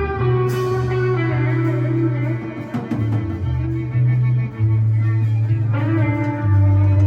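Live rock band playing an instrumental passage: electric guitar and bass guitar holding sustained notes that change every second or so, with drum kit and cymbal hits.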